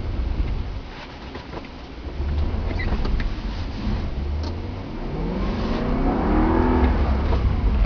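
BMW E90 M3's V8 engine, heard from the car while driving. It eases off about a second in, then pulls harder, with the revs climbing over the last few seconds.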